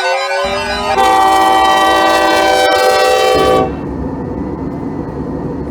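A diesel locomotive's air horn sounds one long chord of several tones for nearly three seconds and stops abruptly. Low locomotive engine rumble starts just before the horn and keeps running after it.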